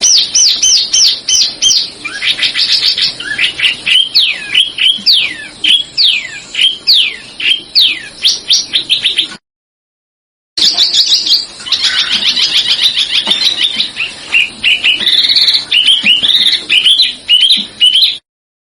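A small songbird singing rapid, clear runs of downward-slurred whistled notes, several notes a second. The song stops dead a little past the middle, with about a second of complete silence, then resumes in a denser, busier run.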